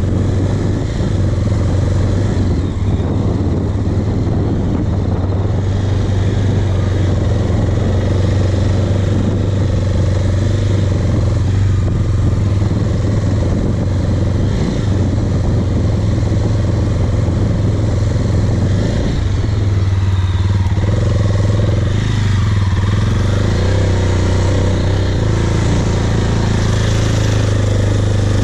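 Motorcycle engine running at a steady low throttle as the bike is ridden across soft grassy ground. Its note shifts slightly a few times, about halfway through and again a few seconds later.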